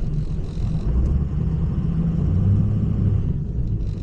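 Tow truck engine running with a low, steady rumble; its note rises and strengthens about a second in and eases off near the end.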